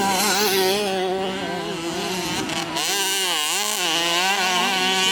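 Motocross dirt bike engines revving, the pitch repeatedly rising and falling as the throttle is worked, with a deep dip about three and a half seconds in. A steady lower engine tone runs underneath.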